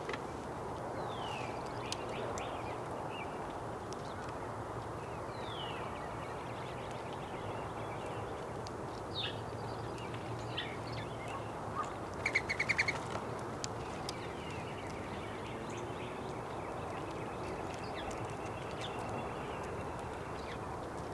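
Small songbirds chirping now and then, short falling chirps, over a steady background hiss. About twelve seconds in comes a quick burst of rapid chattering calls, the loudest sound.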